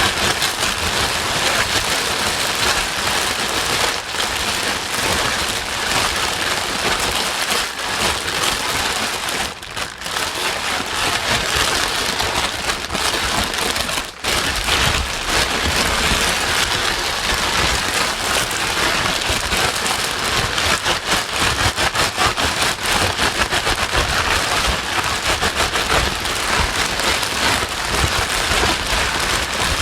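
Steady, dense rain noise used as a white-noise track for soothing a baby, with brief dips about ten and fourteen seconds in.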